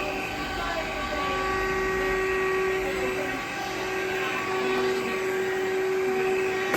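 Cordless vacuum cleaner running steadily: an even motor whine with a few steady tones over a rush of suction air.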